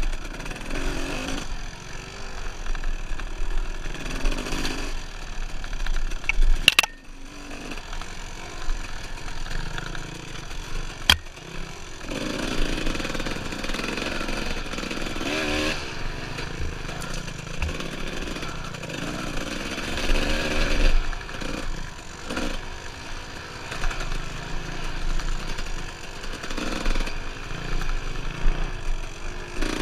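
Dirt bike engine running and revving up and down while riding a trail, with a couple of sharp knocks about 7 and 11 seconds in.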